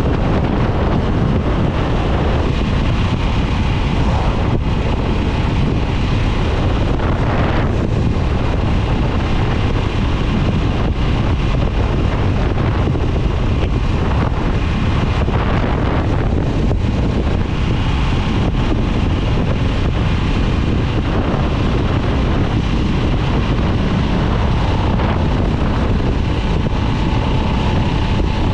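2022 Harley-Davidson Nightster's Revolution Max 975T V-twin running steadily at road speed, mixed with heavy wind noise on the microphone.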